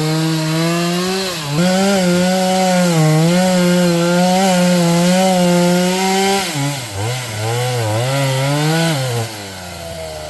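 Two-stroke chainsaw cutting wood at high revs, its engine note wavering and sagging as it bogs in the cut, then dropping back to a low, steady idle near the end. The saw is struggling on a dull chain.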